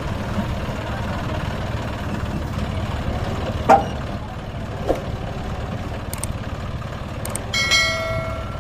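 Heavy farm machinery engine running steadily with a low rumble. Two short sharp sounds come a little past halfway, and near the end a brief ringing tone swells and fades.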